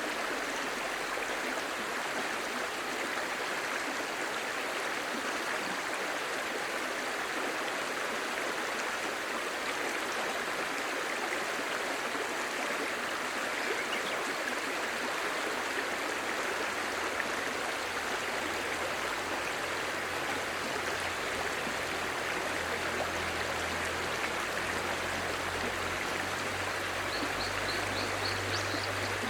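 Clear shallow stream babbling steadily. A brief high trill near the end.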